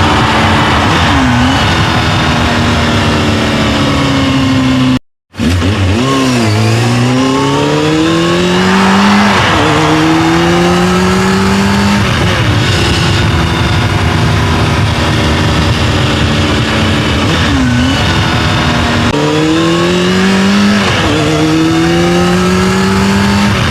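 Racing engine sound effect accelerating hard. The pitch climbs and drops back several times, like shifts up through the gears, and the sound cuts out for a moment about five seconds in.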